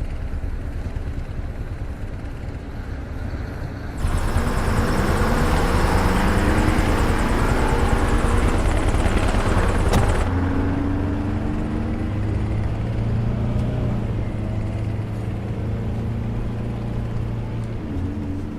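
Helicopter and vehicle engine noise. It grows louder about four seconds in, with pitch glides for several seconds, then settles into a steady engine hum.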